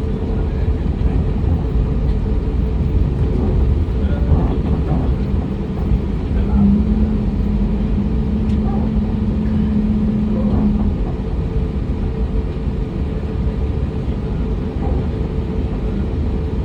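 Steady low rumble of an airliner cabin on the ground before takeoff, from the engines and air conditioning, with a steady hum that stops about eleven seconds in.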